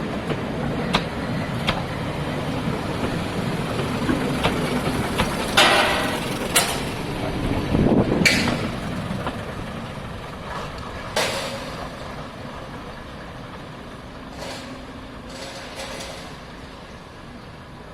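A diesel multiple unit train running and moving away, fading steadily over the second half. There are sharp clicks and short hisses of air along the way, the loudest about six and eight seconds in and another around eleven seconds.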